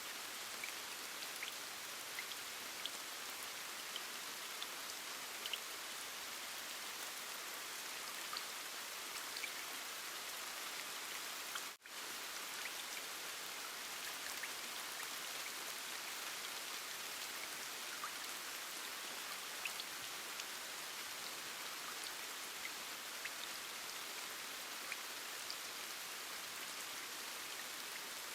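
Steady rain, an even hiss with scattered small drop ticks, with a brief dropout about twelve seconds in.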